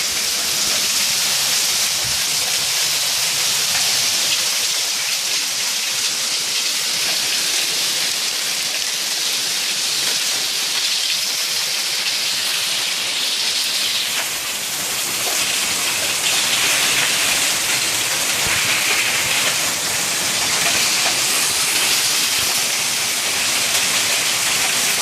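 Heavy rain mixed with hail pelting down hard, a loud, steady, dense hiss.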